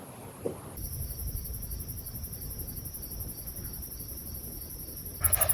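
Crickets trilling in a fast, even, high-pitched pulse over a low rumble; the trill comes in about a second in and grows much louder near the end.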